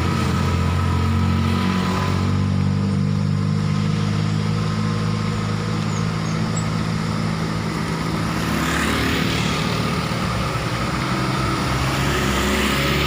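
Motor vehicle engine running at steady low revs with a deep, even drone. A rush of noise rises and fades about eight to ten seconds in.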